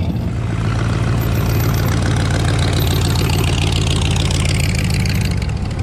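Car engine idling steadily, a low, even rumble.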